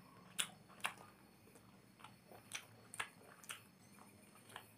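Close-up mouth sounds of someone chewing and eating instant noodles: short, sharp smacks and clicks at irregular intervals, about six in under five seconds.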